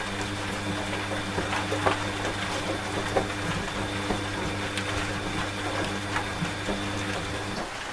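Washing machine running: a steady motor hum with scattered clicks and knocks. The hum cuts off abruptly near the end.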